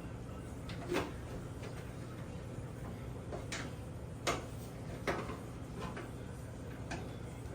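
Scattered clicks and knocks, about five of them, from hands working on bathroom exhaust fan parts, over a steady low hum.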